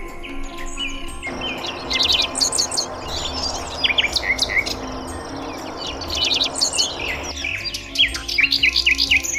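Small birds chirping and twittering in quick, overlapping high calls, over a soft music bed; a steady hiss joins in about a second in and stops about two seconds before the end.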